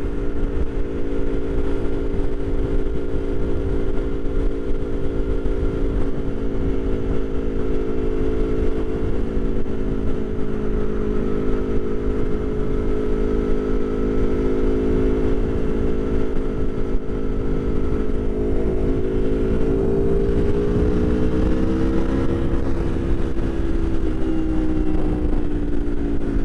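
Aprilia Tuono V4 1100 Factory's V4 engine and exhaust running at a steady cruise, heard through a microphone inside the rider's helmet with a low wind rumble. The engine's pitch rises and dips a little about two-thirds of the way through.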